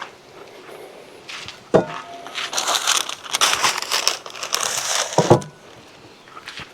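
Packaging crinkled and crumpled by hand for about three seconds, with a knock just before it starts and another as it ends.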